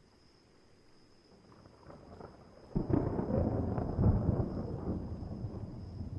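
Thunder: a low rumble builds for about a second, then breaks sharply about three seconds in and rumbles loudly before slowly fading.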